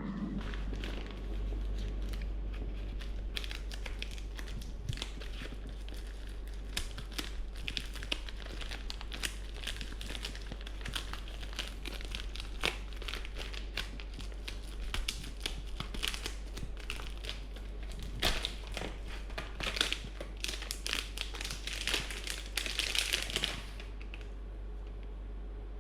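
Plastic packaging crinkling and rustling as it is handled and unwrapped, in dense irregular crackles that stop suddenly near the end, over a steady low hum.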